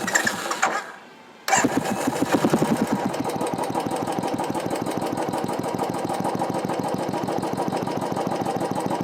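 Royal Enfield Classic 350 single-cylinder engine with an aftermarket exhaust, coming in suddenly about a second and a half in and then idling steadily with an even beat.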